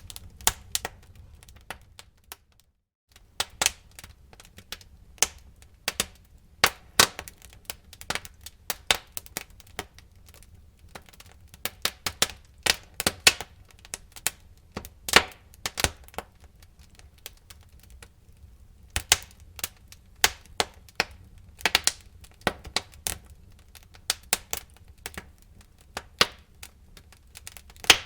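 Wood fire burning in a fireplace: irregular sharp crackles and pops, some much louder than others, over a low steady rumble of the flames. The sound cuts out for a moment about two and a half seconds in.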